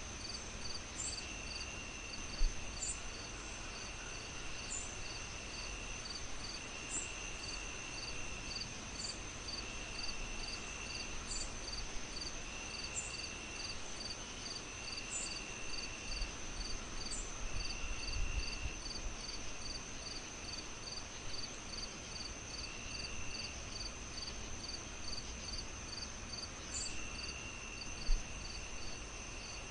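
A layered chorus of insects chirping: a steady high trill, a pulsing chirp about twice a second, and intermittent held buzzes, over a constant hiss. Two soft low thumps, one a couple of seconds in and one near the end.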